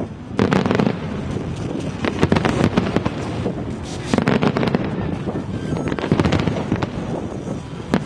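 Fireworks display: aerial shells bursting in rapid crackling volleys, with a heavy cluster of reports roughly every two seconds over a continuous rumble of explosions.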